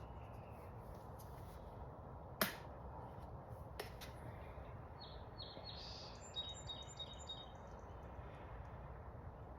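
Low steady background noise with a sharp click a couple of seconds in and a softer one shortly after. Then a small bird chirps a quick run of short high notes.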